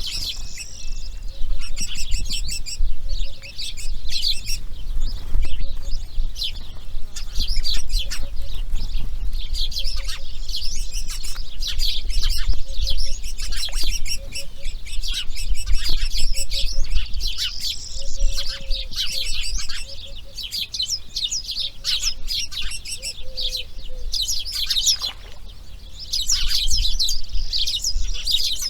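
Birds chirping and calling continuously in a dense, unbroken chorus, over a low rumble.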